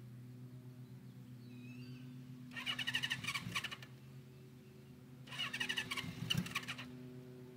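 Electric starter cranking the cold 1974 Honda CB550's engine in two bursts of about a second and a half each, without the engine catching. The bike had not been started in about a month.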